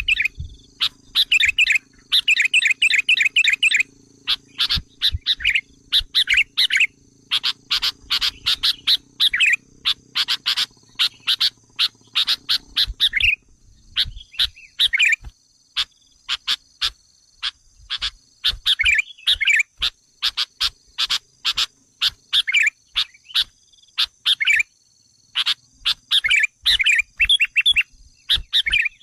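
Sooty-headed bulbul (kutilang) lure calls: an agitated run of short, sharp chirps and rapid trilled bursts, repeating with short gaps, meant to provoke wild kutilang. A faint steady high tone lies beneath them.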